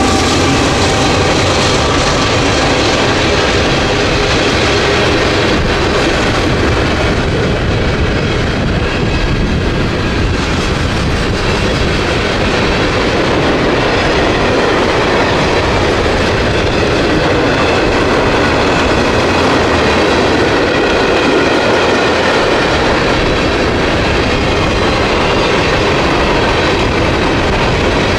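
A train rolling past at close range, its wheels clacking over the rails in a loud, steady noise.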